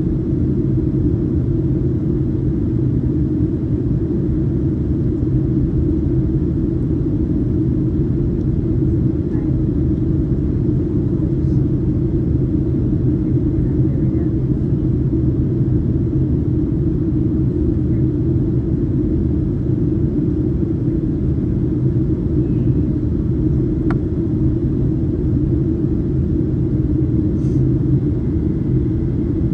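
Boeing 737-800 cabin noise: a steady low drone of the engines and rushing air, even throughout.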